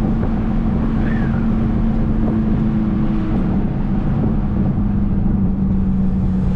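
Turbocharged, straight-piped Mercedes C250's exhaust droning at a steady pitch while cruising at constant speed.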